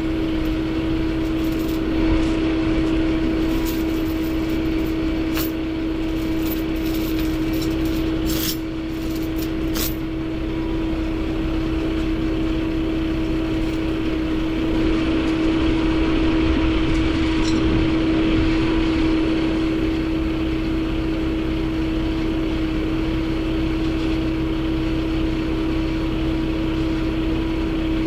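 A motor running steadily with an even, unchanging drone, with a few light clicks and taps in the first ten seconds.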